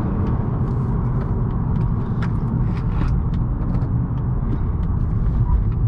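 Steady low rumble of a 2018 Honda Accord 1.5T being driven: a 1.5-litre turbocharged four-cylinder through a CVT, with tyre noise. A few light clicks are scattered through it.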